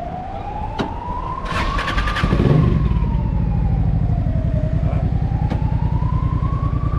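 A siren wails slowly up and down throughout. About two seconds in, a Honda NT650V Deauville's V-twin engine cranks briefly on the starter and catches. It then idles with a low, even throb through a Dominator aftermarket exhaust.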